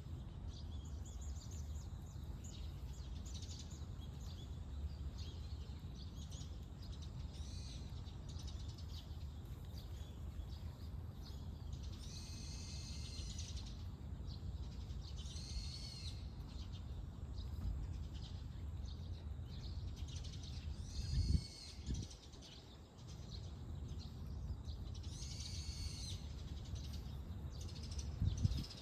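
Birds calling repeatedly, several longer calls among short chirps, over a steady low rumble. Two dull thumps stand out, about seven seconds apart, the loudest sounds of all.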